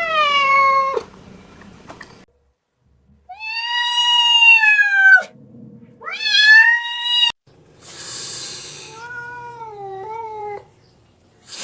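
Cat meowing in a series of long, drawn-out meows, the first short and the next two long. A brief hissing noise follows, then a lower, wavering meow.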